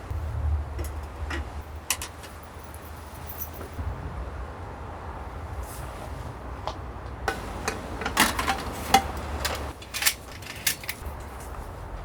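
Strong wind buffeting the microphone with a low rumble, under scattered clicks and knocks of camping gear being handled. The clinks and clatters come thick and fast in the second half.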